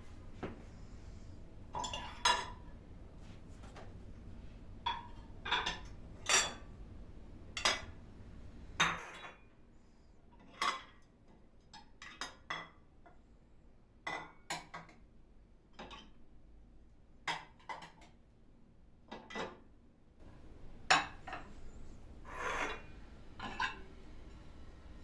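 Dishes and cutlery clinking and clattering as they are handled and set down, in short, irregular knocks about once a second.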